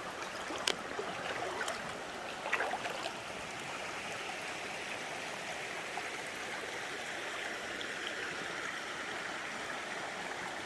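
Creek current running over rocks: a steady rush of flowing water, with a few short knocks or splashes in the first three seconds.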